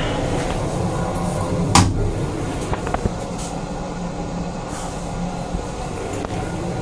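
Steady low rumble of a Metro-North M8 railcar, heard inside its small restroom. A single sharp knock about two seconds in, as the plastic toilet lid is raised, followed by a few lighter clicks.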